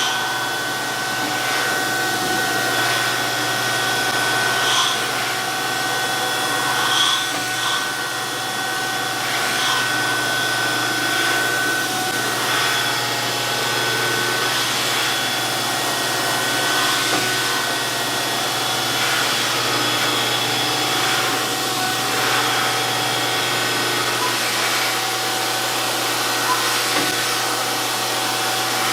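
DoAll 14-inch surface grinder running steadily with a constant whine, and brief brighter scratches scattered through as the wheel works over a Kurt vise.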